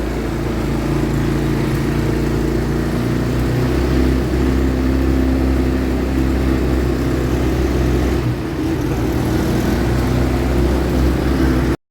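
ATV engine running steadily at low throttle, its pitch shifting slightly a few times and easing briefly about eight seconds in. The sound cuts out abruptly for a moment near the end.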